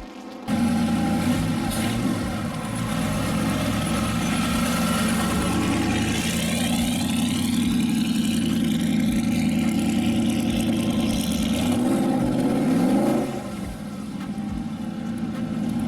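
Race car engine running hard at high revs, its pitch sliding down and climbing again about thirteen seconds in.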